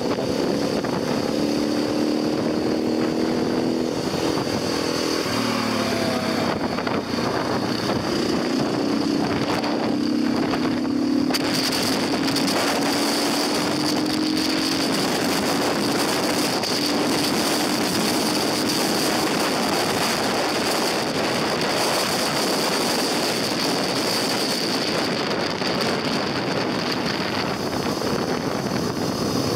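KTM adventure motorcycle engine running on the move, over heavy wind and road noise. The engine pitch drops sharply about five seconds in, then climbs slowly over the next dozen seconds.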